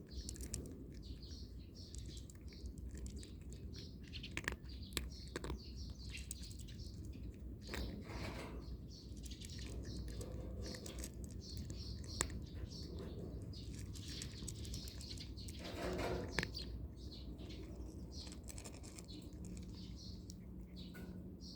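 Small birds chirping throughout, with scattered sharp crunches of a cat chewing dry kibble.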